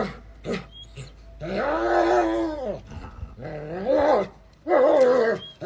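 A dog vocalising: a couple of short sounds, then three long drawn-out calls about a second each, the first rising and then falling in pitch.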